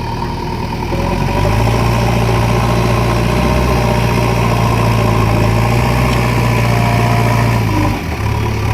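JCB 3DX backhoe loader's diesel engine picking up speed about a second in and holding a steady higher speed, then dropping briefly near the end.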